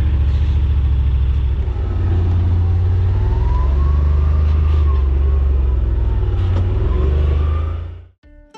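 Side-by-side UTV engine running under throttle, with a whine that rises and falls midway through, stopping abruptly about eight seconds in.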